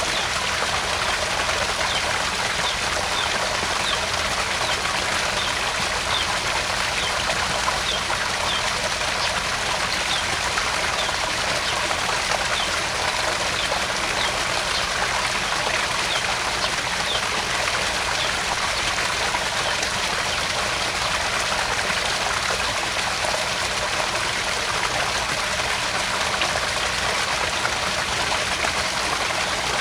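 Garden pond waterfall: water splashing and trickling steadily into the pond. A row of faint, short high chirps sounds through the first half.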